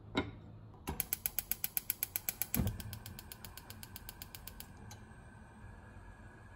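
A fast, even run of sharp mechanical clicks, about eight a second, like a ratchet being turned. A low thump comes partway through, after which the clicks fade and a faint steady high tone hangs on.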